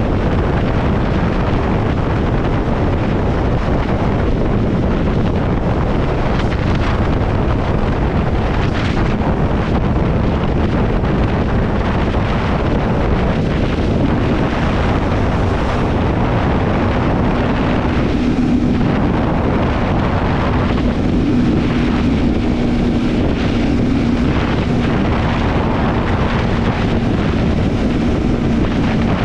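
Triumph Scrambler 400X's single-cylinder engine running steadily while riding at road speed, with wind buffeting the microphone. A steady hum in the engine note comes through more clearly about halfway through.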